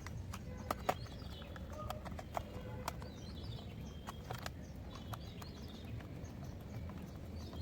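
Small screwdriver driving screws into a plastic toy car body: irregular light clicks and taps of the tool and screws against plastic.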